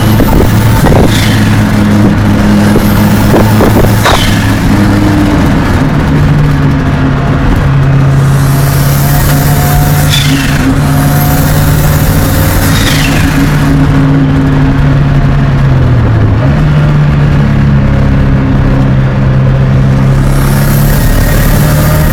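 Mk1 Ford Escort's turbocharged Cosworth engine running under way with a fairly steady engine note. A high turbo whine rises and falls away several times.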